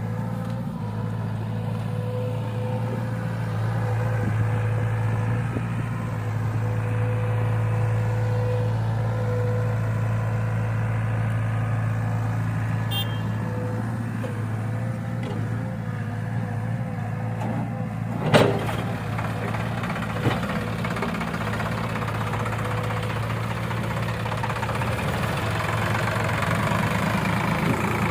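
Heavy diesel engine running steadily with a low hum. A single sharp knock about two-thirds of the way through stands out above the engine, with a smaller one shortly after.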